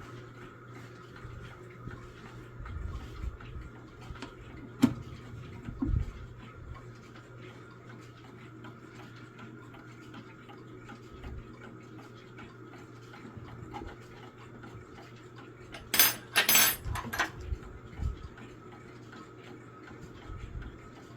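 Baduf mantle clock ticking faintly and steadily. A sharp click comes about five seconds in, and a short burst of loud metallic clatter comes near the end.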